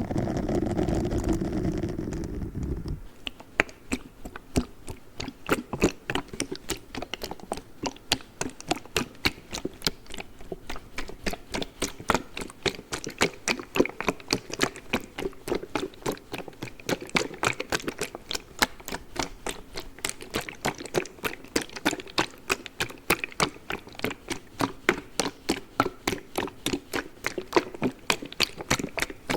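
ASMR tapping on a cold pack: rapid, even clicks, about five a second, that start about three seconds in after a short muffled low sound and keep the same pace.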